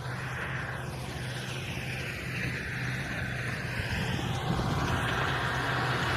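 A big tractor's engine running steadily under load while plowing, growing slightly louder toward the end.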